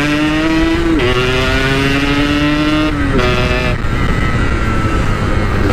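Yamaha RX-King single-cylinder two-stroke motorcycle with a stock-style Packing Power exhaust accelerating, its pitch climbing and then dropping at upshifts about one second and three seconds in, before settling into steady running.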